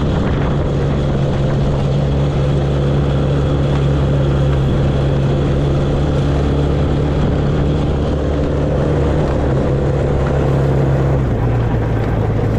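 Quad bike (ATV) engine running steadily, its note dropping a little about eleven seconds in as the revs ease off.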